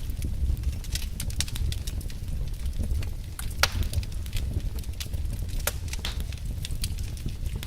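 Burning log fire crackling, with frequent sharp pops and snaps, the loudest about three and a half seconds in, over a steady low rumble.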